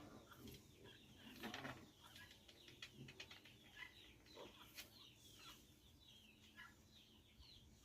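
Faint chickens chirping and clucking: many short, high, falling chirps, with a few rustles and scratches, loudest about one and a half seconds in.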